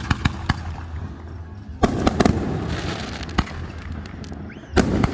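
Fireworks display: aerial shells bursting in a series of sharp cracks and booms. There are several quick cracks at the start, a big burst with crackling about two seconds in, and another heavy boom near the end.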